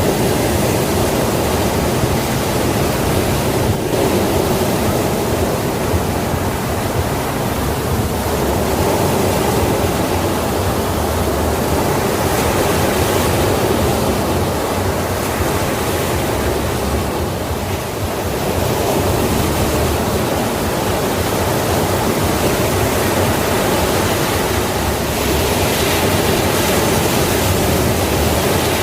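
Sea waves washing on the shore in a steady roar of surf, swelling and easing slowly, with a slight dip about 18 seconds in.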